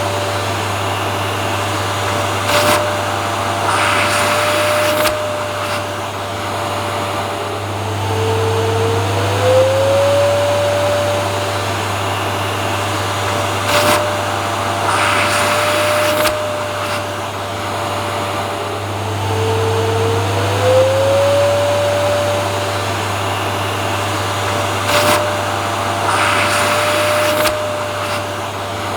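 Vacuum cleaner motor running continuously with a steady low hum and a higher whine. The whine dips and climbs back up about every eleven seconds, and short rushes of louder hiss come at a similar interval, as in a looped recording.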